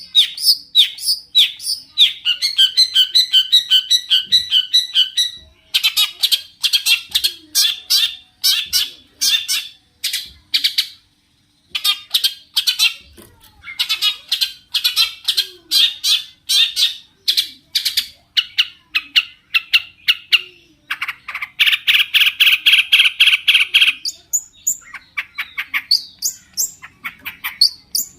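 Long-tailed shrike (cendet) singing a loud, rapid and varied song of fast trills, chattering runs and a harsh buzzy phrase, with a short pause about eleven seconds in.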